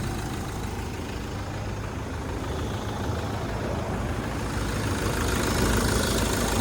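The diesel engine of a Mitsubishi Fuso FE130 box truck idling steadily, a low even rumble that grows a little louder in the second half.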